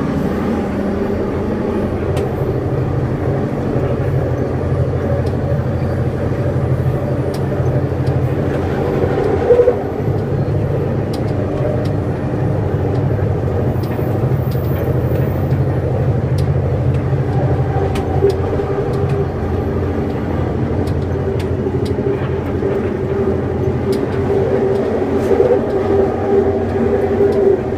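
Scarborough RT train running, heard on board: a steady rumble under a humming motor tone, with scattered faint clicks from the track. The hum comes from the Mark I cars' linear induction motors.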